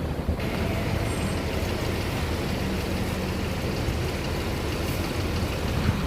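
Steady low rumble of large vehicle engines, with a hiss of noise that comes in about half a second in.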